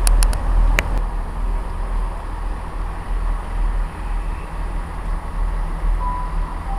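Train at a station platform: a steady low rumble, with a few sharp clicks within the first second and two brief thin tones near the end.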